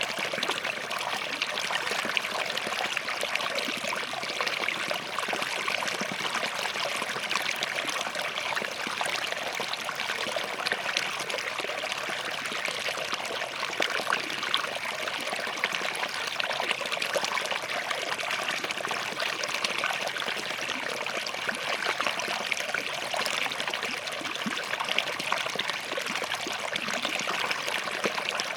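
Small forest stream flowing and trickling over rocks, a steady babble of water with fine splashes.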